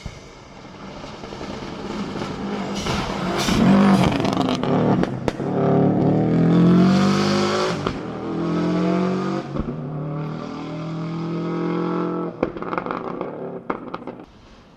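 Rally car at full throttle, its engine rising in pitch and dropping back several times as it changes gear, with a few sharp cracks along the way. It grows loud as it comes close, then fades towards the end.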